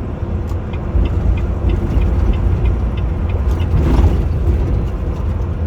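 Steady low rumble of a semi truck's engine and road noise heard from inside the cab while driving on the highway, with a faint light ticking about three times a second.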